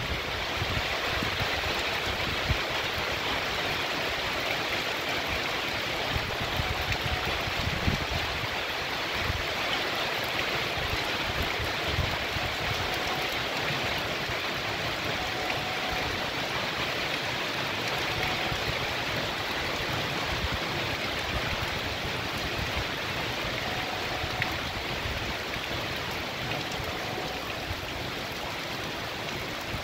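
Heavy rain pouring steadily onto a paved street and tree foliage, with runoff water rushing along the road, as a constant hiss with irregular low rumbles.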